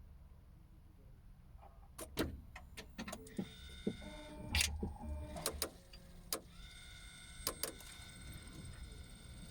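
Mazda MX-30 driveline under a low rumble. From about two seconds in, a run of sharp, irregular rattles and knocks starts, and a steady whine joins them. The owner puts the rattling down to the driveline reducer, which was replaced once but began rattling again.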